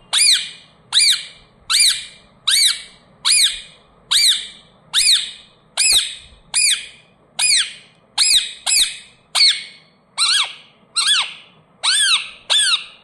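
A pet parrot giving a long run of sharp, evenly spaced squawks, about one and a half a second, each call a quick rise and fall in pitch.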